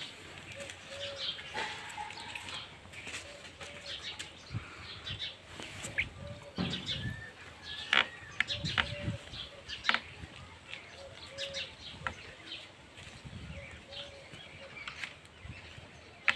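Birds chirping: many short, sharp chirps, with a short low note repeating about once a second. A few louder sharp chirps or knocks stand out between about six and ten seconds in.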